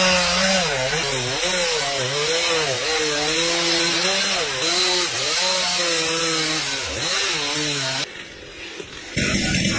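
Chainsaw running hard as it cuts into a tree, its pitch repeatedly dipping and recovering as the chain loads and frees in the cut; it stops abruptly about eight seconds in.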